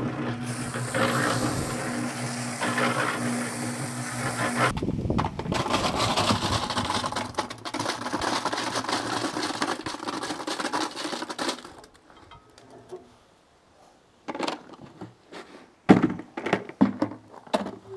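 A small motor-driven mixer churning concrete: a steady motor hum over a rough mixing noise, which changes to denser churning a few seconds in. Near the end it stops briefly, then comes a series of separate knocks.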